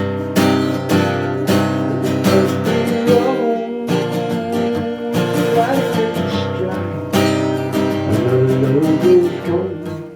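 Acoustic guitar strumming chords in a steady rhythm, with a wavering melody line carried over the chords.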